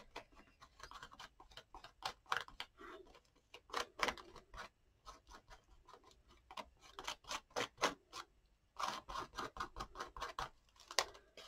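Irregular light taps and scratches of a tool working a medium onto a paper journal page, growing denser near the end with one sharper tap.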